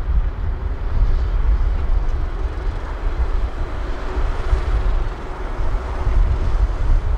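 Heavy construction machinery running steadily: a deep, uneven engine rumble, with wind buffeting the microphone.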